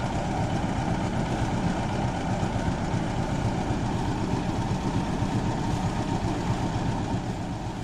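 Engine-driven rice threshing machine running steadily, a continuous mechanical drone.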